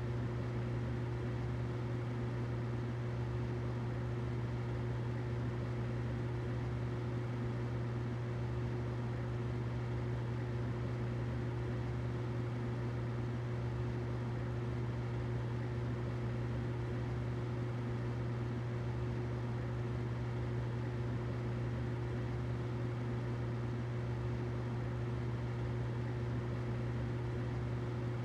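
Humidifier running: a steady low hum with a fainter higher tone and a soft hiss over it, unchanging throughout.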